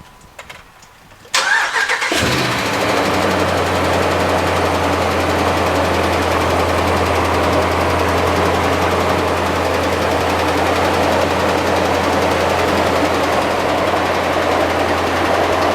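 Ram pickup's Hemi V8 cranked by the starter and catching about two seconds in, then idling steadily. The idle carries an engine noise the owner says is more than ticking, worse than a typical Hemi tick, and not yet diagnosed.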